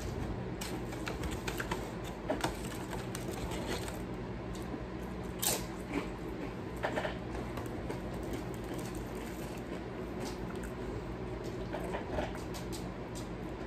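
Close-miked eating sounds from someone chewing a burrito: scattered small wet clicks and smacks of the mouth, a few a second, over a steady low hum.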